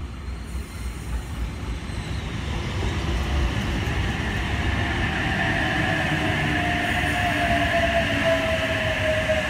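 Oscar H-set double-deck electric train pulling into the platform and slowing, getting louder as it comes alongside. From about halfway through, a clear whine slowly falls in pitch as the train slows down.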